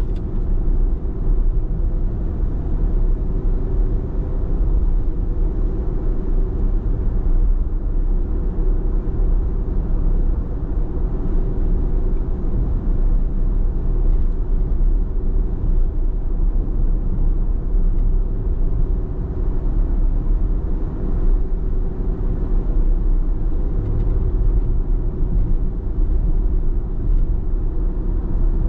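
Steady road noise of a car driving: a continuous low rumble of tyres and engine at cruising speed.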